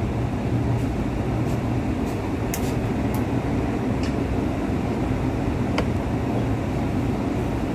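Steady running noise of a moving Kinki Sharyo–Kawasaki SP1900 electric multiple unit, heard inside the passenger car: a low rumble with a hiss over it, and a few faint high ticks.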